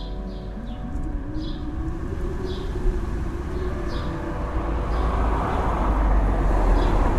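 Blizzard wind howling and rumbling, a gust building steadily louder, with a moaning howl that rises in pitch about a second in. Short high chirps sound now and then over it.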